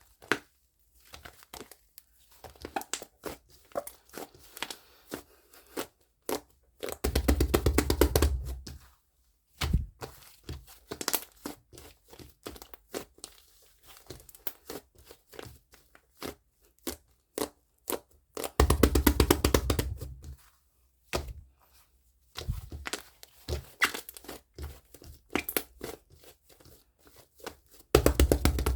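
Fluffy foam slime being squished and poked by hand, giving scattered sticky clicks and small air-bubble pops. Twice it breaks into a dense crackling run of about two seconds as the slime is pressed and stretched.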